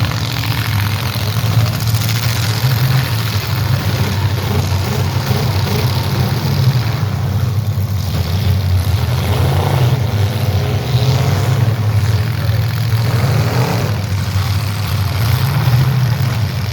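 Demolition derby cars' engines running loud, a steady low rumble with occasional revving.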